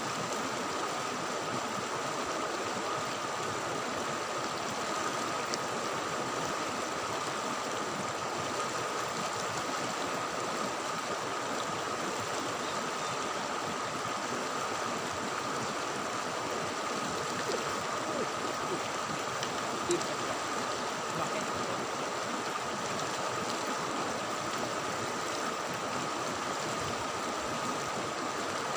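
Steady rush of flowing river water, with a thin, steady high tone running beneath it.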